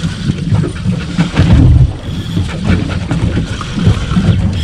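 Wind buffeting the microphone aboard a small aluminium boat at sea, a heavy, uneven low rumble with scattered light knocks.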